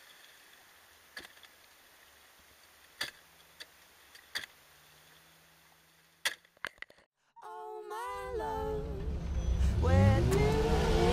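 Jeep Wrangler engine revving up under load as it climbs a steep sandy ledge, rising in pitch and loudness from about two-thirds of the way in. Before that there is only a faint hum with a few scattered clicks.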